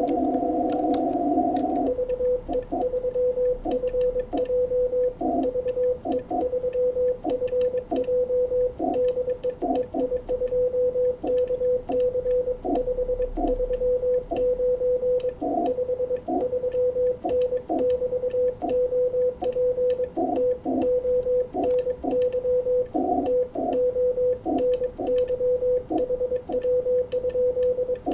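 Morse code from a 20-metre amateur radio transceiver: a steady tone of about 500 Hz keyed in dots and dashes, over band hiss held in a narrow CW filter. For the first two seconds only the hiss is heard, then the keying starts and runs on.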